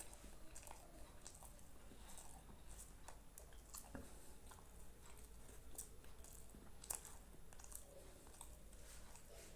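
Faint chewing of food close to the microphone, with soft irregular mouth clicks.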